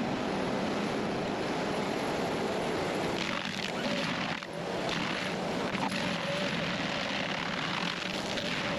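Heavy machinery running: a steady engine noise with a few swells a few seconds in.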